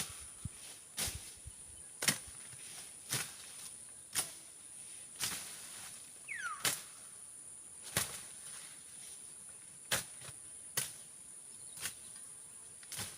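A blade slashing through brush and grass by hand: sharp swishing cuts about once a second. A steady high-pitched insect drone runs underneath.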